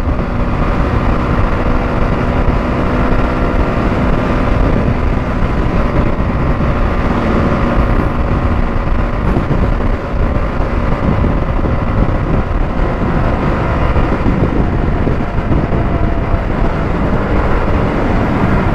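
KTM Duke 200's single-cylinder engine running at a steady cruising speed, under heavy wind rush on the microphone.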